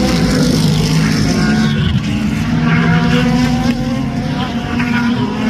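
GT and prototype race car engines running loud, a steady engine drone.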